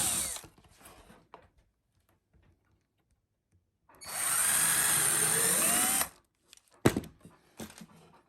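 Power drill working wood: its motor winds down just after the start, then after a pause runs again for about two seconds, spinning up and slowing off. A sharp knock follows a second later, then a couple of lighter knocks.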